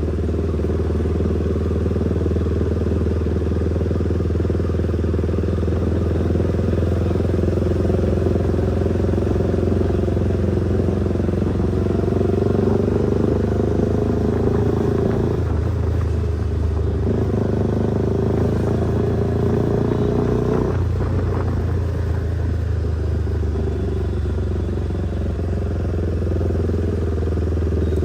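KTM motorcycle with an aftermarket exhaust running steadily while being ridden, the engine note dipping briefly twice around the middle, as when the throttle is eased or a gear is changed.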